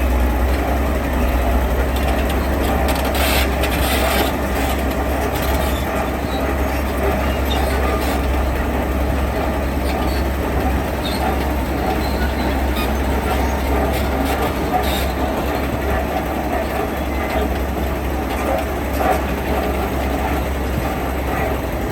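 Heavy diesel construction machinery running steadily with a low, even rumble, and a few short knocks a few seconds in.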